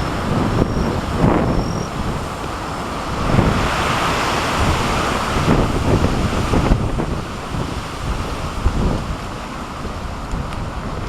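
Strong typhoon wind gusting and buffeting the microphone, with a low rumble throughout. A hissing rush of wind swells from about three seconds in and eases off around seven seconds.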